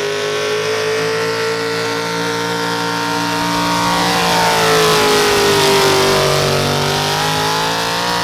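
A pulling vehicle's engine running at high revs under load, held hard on the throttle. Its pitch sags a little about five to six seconds in, then climbs again.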